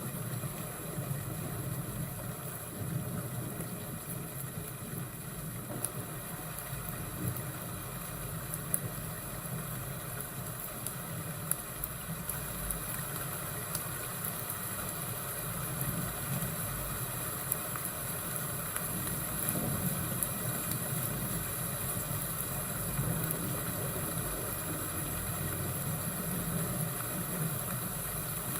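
Fireplace and thunderstorm ambience: a steady low rumble under a soft even hiss, with occasional brief crackles.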